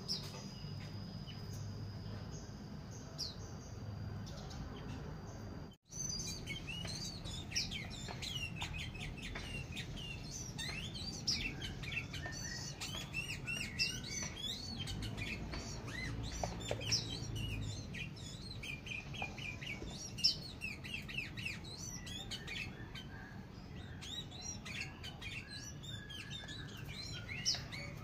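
Bulbuls in an aviary chirping and chattering in many short overlapping calls. A steady high whine runs for the first few seconds, then the sound cuts out briefly, and the calls come thickly after that.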